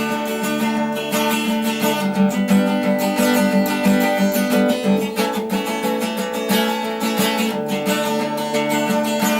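Acoustic guitar strumming steady chords: the instrumental introduction of a song, with no singing yet.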